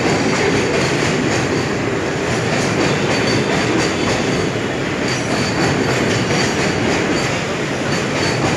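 Freight train of container wagons rolling past at close range: a steady, loud rumble and clatter of wheels on rail, with a faint high squeal from the wheels now and then.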